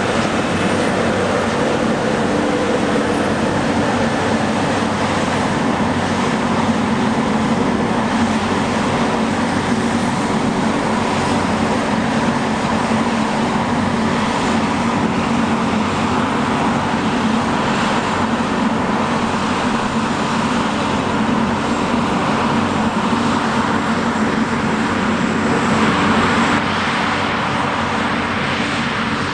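Heavy diesel harvest machinery running steadily under load, a constant engine hum with machine noise over it, growing slightly louder near the end.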